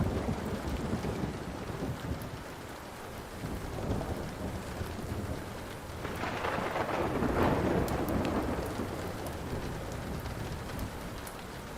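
Steady rain with thunder rumbling, swelling into a longer roll about six seconds in and slowly fading, with a few sharp crackles from a burning wood fire.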